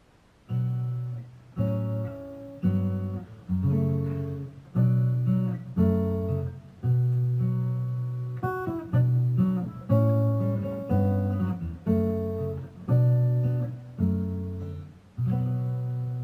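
Instrumental introduction of an Irish folk song: an acoustic guitar strummed about once a second, with held accordion notes. The music starts about half a second in.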